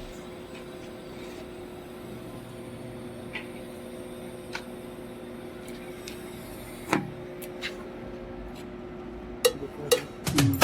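Steady machine hum with a few faint clicks and taps; a sharper knock about seven seconds in and a cluster of knocks near the end.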